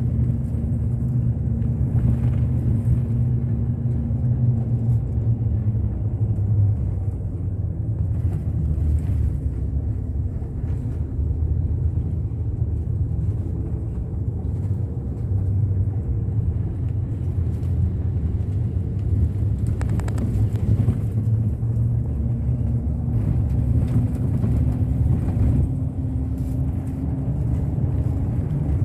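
Bus running on the road: a steady low engine and road rumble, with a faint engine tone that drops away and later comes back rising as the engine speed changes.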